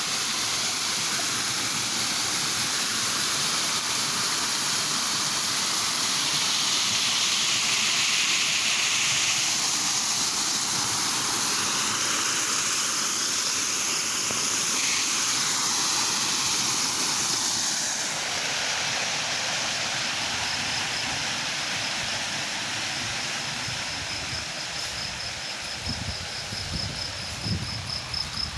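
Running water of a stream or small waterfall, a steady rush. About two-thirds of the way through the sound changes and softens, and a steady high pulsing insect trill, like a cricket, joins the water. A few low thumps come near the end.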